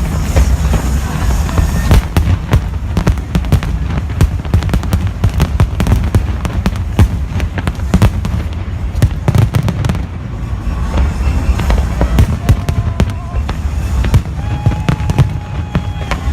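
A big fireworks display: a dense, unbroken run of sharp bangs and crackles over a continuous low rumble of shell bursts, with a few pitched whistles or tones in the second half.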